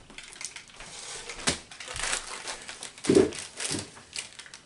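Snack packaging crinkling as it is handled, in irregular crackly bursts, the loudest about three seconds in.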